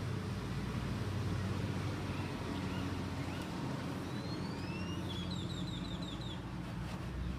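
A steady low rumble, like an engine running somewhere near, over open-air ambience. About four seconds in, a bird gives a rising whistle and then a quick run of about eight high chirps.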